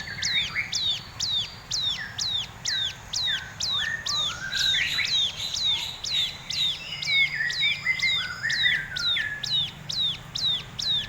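A bird calling a long, even series of high whistled notes, each dropping sharply in pitch, about two and a half a second. Softer, lower chirps come and go underneath.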